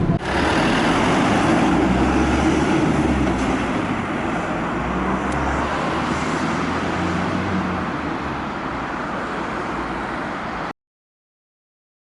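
City route bus running, heard from inside the cabin: steady low engine rumble with road noise that slowly eases, then cuts off suddenly about ten and a half seconds in.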